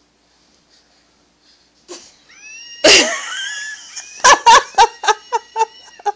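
Battery-powered toy monkey playing its recorded monkey chatter: about two seconds in a sliding screech, then a quick series of loud hoots, about four a second, over a steady electronic whine.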